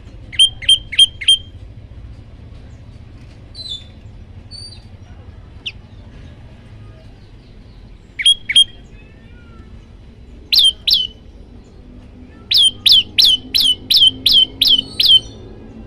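Prenjak lumut singing: loud, sharp repeated notes in quick bursts, four near the start, then two, two, and a run of eight near the end, with a few faint chirps in between.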